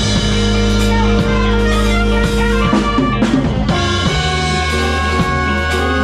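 Band music with guitar, bass and drum kit playing a steady rock-style groove.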